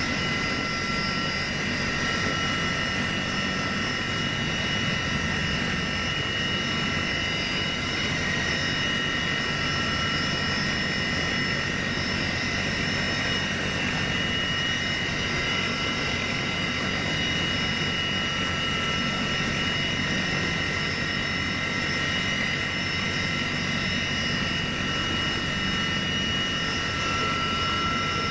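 Aircraft turbine engine running steadily, a constant rush with a high, unwavering whine and no gunfire.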